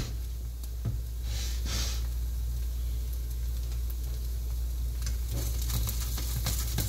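Potato pancake frying in a pan, a steady soft sizzle. From about five seconds in, a spatula scrapes and taps against the pan in quick small clicks.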